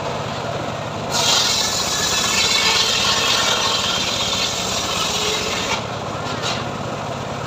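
A homemade log sawmill's engine running steadily. From about a second in until near six seconds, its blade cuts through a sengon log with a loud rasping hiss, then the engine runs on alone.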